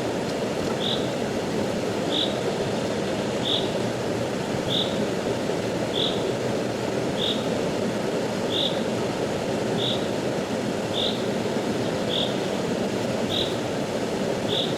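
Rushing river water, a steady even rush. Over it, a short high chirp repeats evenly about once every second and a quarter.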